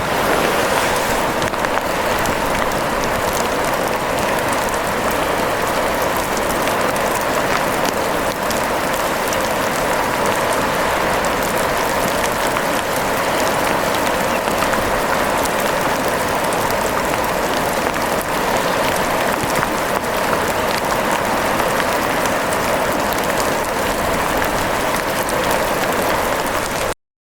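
Steady rain, a dense even patter of drops that cuts out for a moment at the very end.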